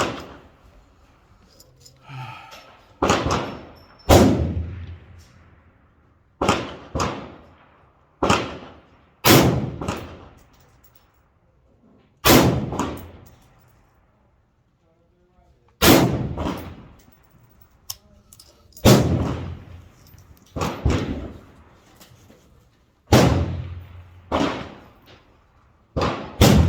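Slow, deliberate rifle fire from an M4-clone 5.56 mm carbine being sighted in: about a dozen single shots, irregularly spaced one to a few seconds apart, each followed by a fading echo.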